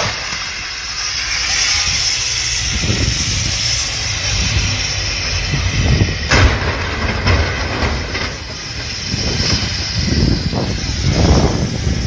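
Highway traffic on a snowy interstate: a steady rumble and hiss of vehicles going by, with a sharp knock about six seconds in.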